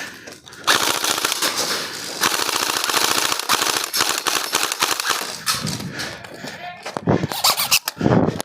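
Airsoft rifle firing on full auto: a long, rapid rattle of shots starting about a second in and running for several seconds, then shorter bursts near the end.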